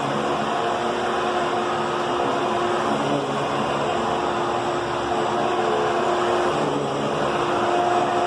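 Fantom Thunder cyclonic upright vacuum cleaner running steadily while vacuuming, a constant motor hum with a steady mid-pitched tone.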